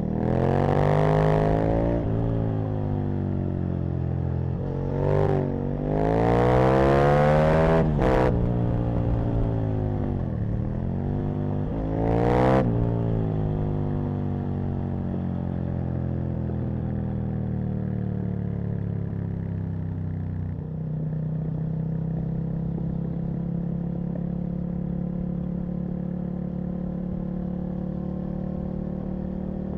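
Aprilia RSV Mille's V-twin engine under way: its pitch climbs hard and drops off several times in the first dozen seconds as the rider accelerates and changes gear, then it settles into a steady cruise.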